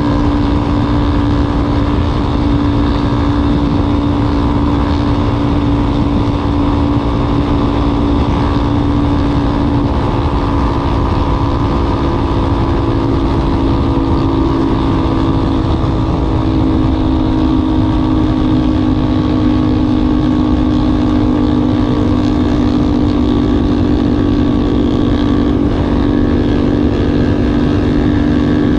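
Yamaha Ténéré 250's single-cylinder four-stroke engine running steadily through an aftermarket WACS muffler, its exhaust note holding a nearly constant pitch with small shifts.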